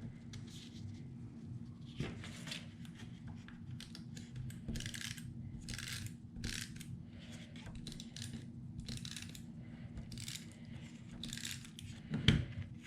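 Paper craft pieces being handled and shifted on a work surface: a string of short, irregular rustles and scrapes, with a sharp click or tap near the end.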